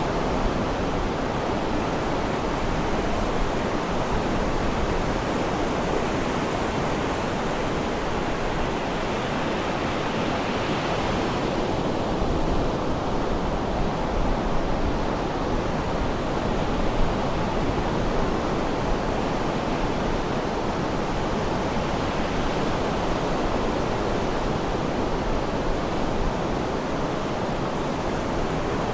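Sea surf washing steadily, an even hiss of waves with no separate crashes.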